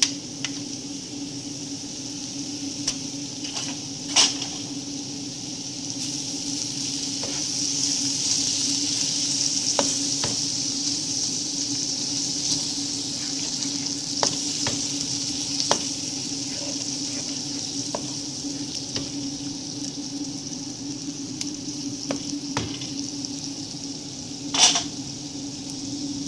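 Masala of onion, tomato, ginger, garlic and yogurt sizzling in a pan while being stirred, with occasional knocks of the spoon against the pan; two louder knocks come about four seconds in and near the end.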